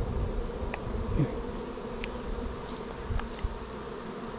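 Honeybees buzzing steadily in a dense hum around an open hive, with a few faint clicks over it.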